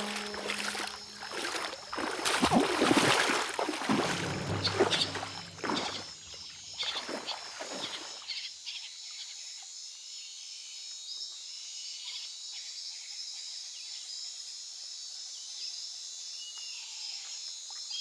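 Rainforest ambience: for about the first eight seconds, loud irregular rustling and scratching over fading low music tones, then a sudden change to a steady, high insect chorus with a few faint chirps near the end.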